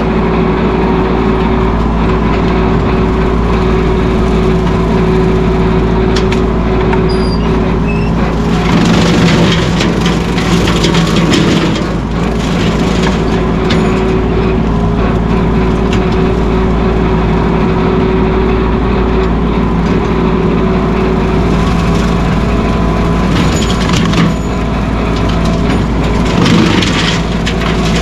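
Mahindra 1626 sub-compact tractor's diesel engine running steadily at working speed. Spells of crackling and rattling come through about a third of the way in and again near the end.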